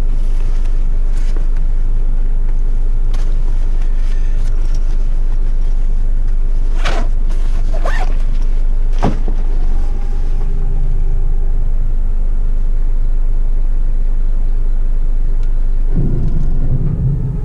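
Heavy rigid truck's diesel engine running with a steady low rumble, with three short sharp sounds about halfway through. Near the end the engine gets louder.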